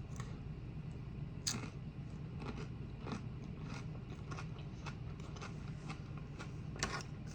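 Close-miked chewing of food: a string of short, crisp crunches and mouth clicks about every half second, with louder crunches about a second and a half in and near the end.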